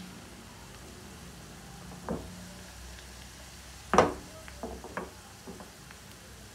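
Potato cubes and onions sizzling gently in hot oil in a frying pan. A knock about two seconds in, then a louder knock about four seconds in followed by a few lighter knocks.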